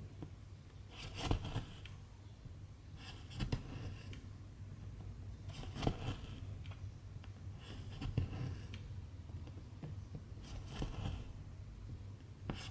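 Silk embroidery thread pulled through cross-stitch fabric with a needle: a soft rasping pull about every two seconds, five times.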